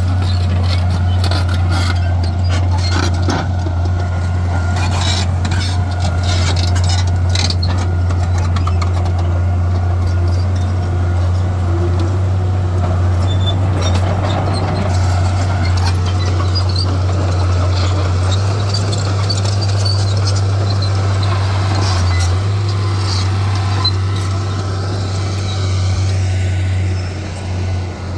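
Heavy diesel earthmoving machinery running steadily, with a constant low engine hum and scattered sharp clicks and clanks, most of them in the first several seconds.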